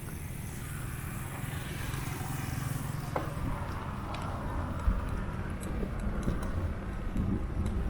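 Wind rumbling on a small handheld camera's microphone during a bicycle ride, with a rushing road or traffic hiss that swells about two seconds in and a single thump near the five-second mark.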